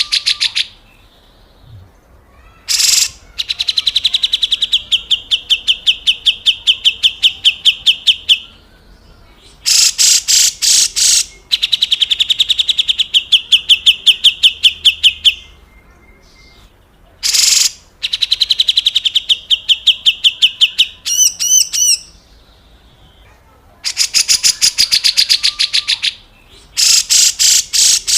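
Grey-cheeked bulbul (cucak jenggot) giving its harsh, rattling 'besetan kasar' call: runs of rapid, evenly repeated rasping notes, each run a few seconds long, coming again and again after short pauses, with a few brief bursts between them.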